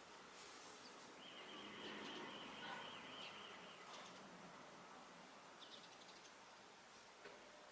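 Faint sparrow chirps over a background hiss. A steady, high trill starts about a second in and lasts about two and a half seconds.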